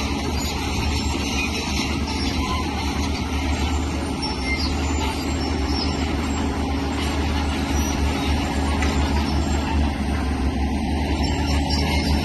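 Heavy earthmoving machinery working: a large diesel engine running steadily under load, with a deep low rumble and a constant noisy clatter above it.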